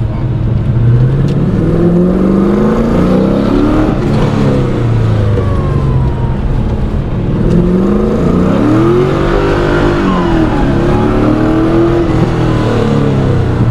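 LS V8 engine in a BMW E36 being driven hard on an autocross course. It revs up and drops back repeatedly, rising and falling in pitch several times as the car accelerates and slows between corners.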